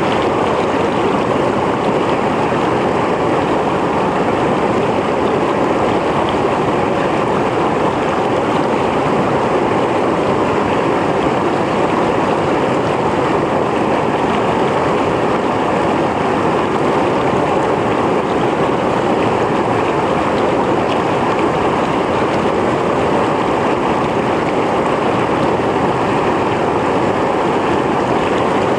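Mountain stream flowing over rocks: a steady, loud rush of water with no pauses or sudden splashes.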